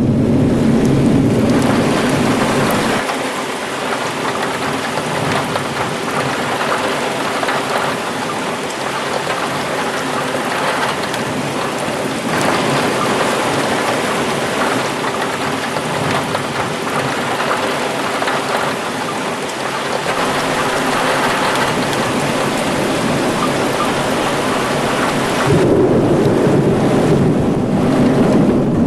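Heavy rain pouring steadily in a violent thunderstorm. A deeper low rumble comes through in the first few seconds and again near the end.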